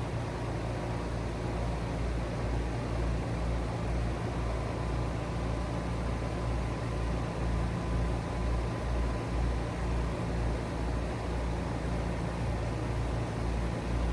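Trane XR14 heat pump outdoor unit running steadily: a constant low compressor hum under the even rush of the condenser fan.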